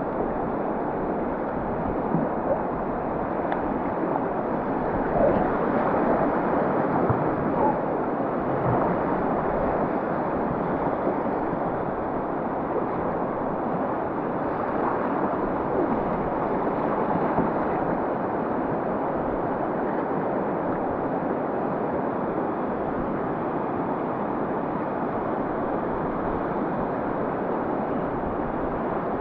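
Rushing whitewater of river rapids: a steady noise of running water, with a few faint small splashes in the first ten seconds.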